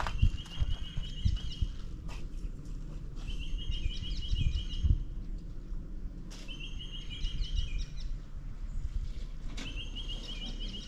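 A bird sings a short phrase of quick repeated notes, four times about three seconds apart, over a steady low rumble of outdoor noise.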